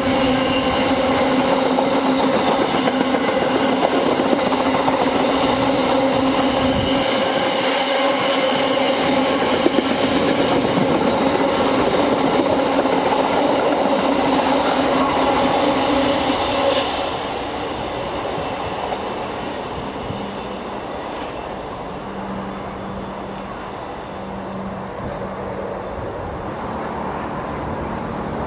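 Train running past close by, with a steady drone and clatter of wheels on the rails; it drops away and fades about seventeen seconds in.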